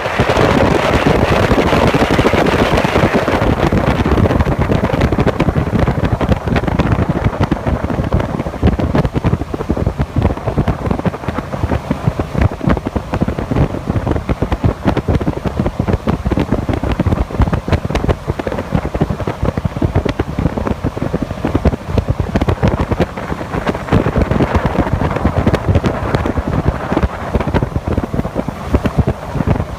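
Heavy wind buffeting on the microphone aboard a jet boat under way, over a steady rush of water; loudest and brightest in the first few seconds.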